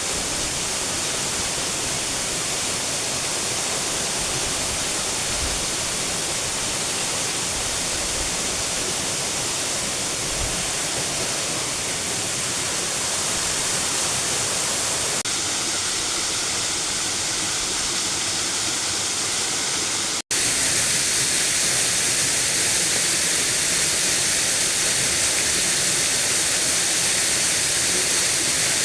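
Steady rush of a waterfall, an even roar of falling water. About two-thirds of the way through it cuts out for an instant and comes back slightly louder and brighter.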